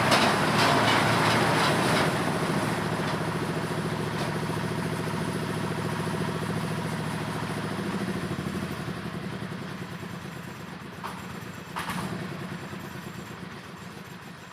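Engine-driven corn sheller running: a loud clattering rush for the first two seconds, then a steady engine hum that slowly fades. One short sharp knock comes near the end.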